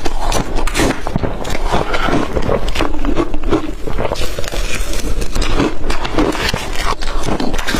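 Close-up crunching of blender-crushed ice being bitten and chewed, a steady run of dense crackles and crunches.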